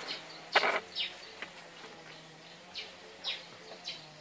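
Short, high bird chirps, each falling quickly in pitch, repeated every half second to a second, with one louder, sharper call about half a second in.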